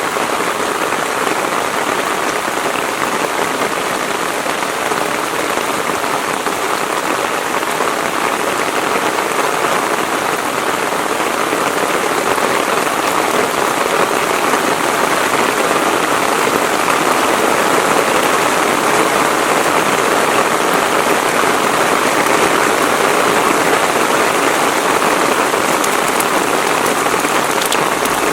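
Heavy rain falling steadily, a dense even hiss of drops on surfaces, growing slightly louder around the middle.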